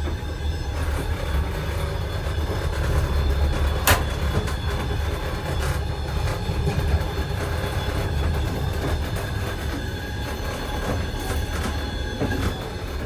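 Running noise of a passenger train, heard from inside a platzkart sleeping car: a steady low rumble with a single sharp click about four seconds in.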